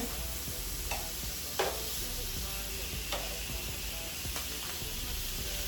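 Food sizzling steadily on a hot flat-top griddle, with a few short scrapes or taps of a cooking utensil on the cooking surface.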